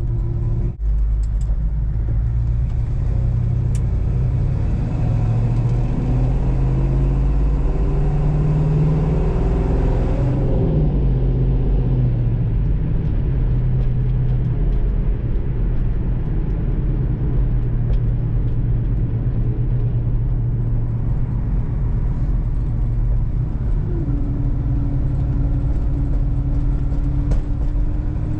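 1971 Pontiac Ventura's engine and road noise heard from inside the cabin while driving on its freshly rebuilt original carburetor. The engine note rises as the car speeds up about a third of the way in, then settles into a steady cruise, and picks up again near the end.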